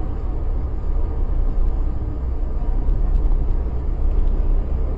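Steady low rumble of a car on the move: engine and tyre noise inside the cabin.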